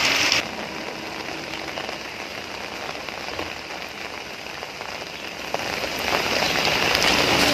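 Heavy rain pouring steadily onto flooded streets and standing water, louder in the first half second and again from about six seconds in.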